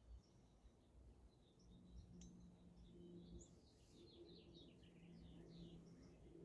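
Near silence: faint bird chirps in the background over a low steady hum, with one faint tick just after two seconds.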